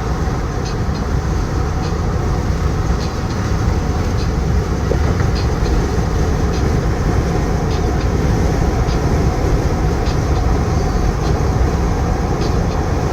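Steady road and engine noise of a vehicle driving at speed, a deep rumble with a hiss over it and light ticks now and then.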